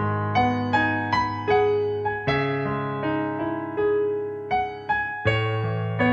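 Gentle piano music: a slow melody of struck notes, about two a second, over held bass notes.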